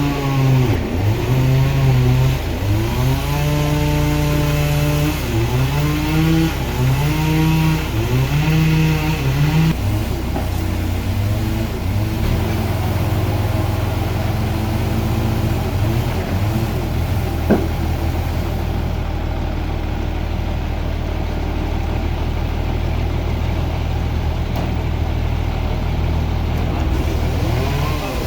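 A machine engine revving up and down repeatedly, then running at a steady speed, with one short knock partway through.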